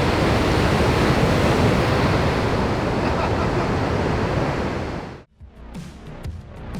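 Loud, steady rush of ocean surf, cut off abruptly about five seconds in, when music with a regular beat starts.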